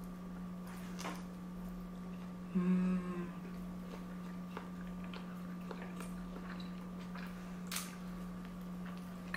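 People eating sushi: faint chewing and small clicks of chopsticks over a steady low hum, with one short, closed-mouth "mmm" of enjoyment about three seconds in.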